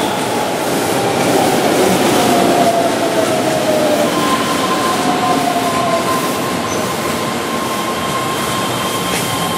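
Keihan 13000-series electric commuter train running past, a steady loud rolling of steel wheels on rail. Thin squealing tones from the wheels on the curve ride over it, one sliding slightly down in pitch early on and a steadier one setting in about four seconds in.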